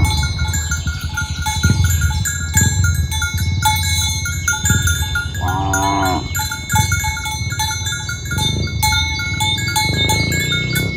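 A cow moos once about halfway through, a single call of nearly a second. Short metallic clinking tones repeat throughout, like bells, over a steady low rumble.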